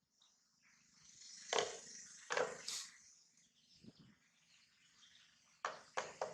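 A few short, sharp clicks and smacks with a brief high squeak between them, from a small pet monkey at its snack.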